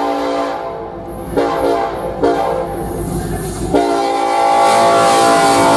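Norfolk Southern freight train led by a single GE AC4400CW locomotive sounding its multi-chime air horn in several blasts, the last one long and held, over the low rumble of the train.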